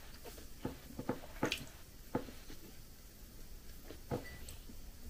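Faint mouth sounds of someone eating a soft cheese pastry: quiet chewing with a few short, soft lip smacks and clicks.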